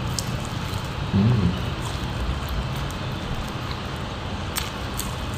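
Eating sounds, with soft chewing and a few mouth clicks near the end, over a steady low background hum; a brief low hum of the voice comes about a second in.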